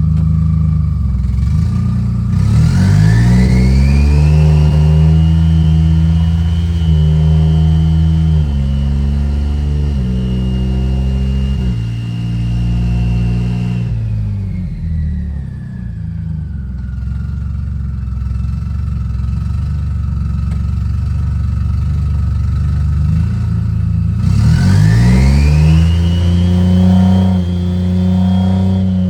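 Toyota 2JZ-GTE turbocharged straight-six in a Nissan Cefiro, driven through an 8HP automatic transmission, accelerating hard. A high whine climbs with the revs, and the engine note steps up and down as it holds speed. It eases off and winds down around the middle, then accelerates again near the end.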